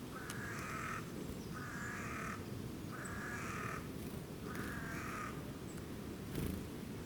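A bird calling four times, each call under a second long and evenly spaced about a second and a half apart, over a steady low background hiss. A short thump follows near the end.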